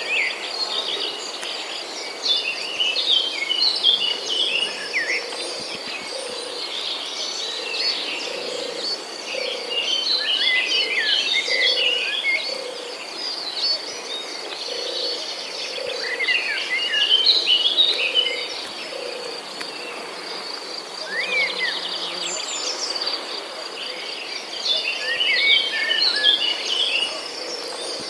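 Birds singing in bursts of quick, busy chirping every several seconds over a steady high insect trill. A soft low note repeats about once a second underneath.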